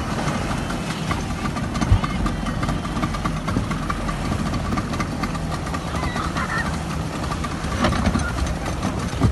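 A boat engine running steadily at low speed, with a couple of short knocks.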